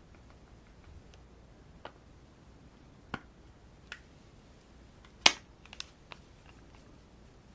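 Makeup cases and tools being handled close to the microphone: a handful of sharp clicks and taps, the loudest just past five seconds in, followed by a quick cluster of smaller clicks.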